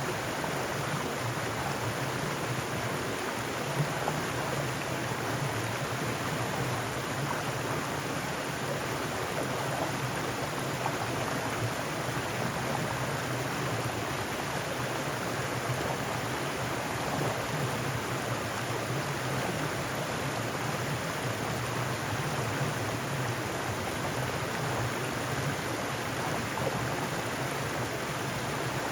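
Mountain stream flowing over rocks, a steady rushing and splashing of water.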